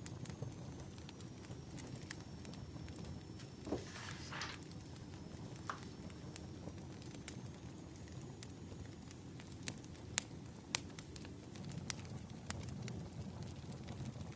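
Firewood burning, crackling with scattered sharp pops at irregular intervals over a steady low rumble.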